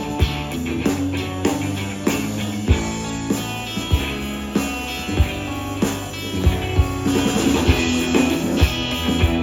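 Live blues-rock band playing an instrumental passage between vocal lines: electric guitar over bass and a drum kit keeping a steady beat.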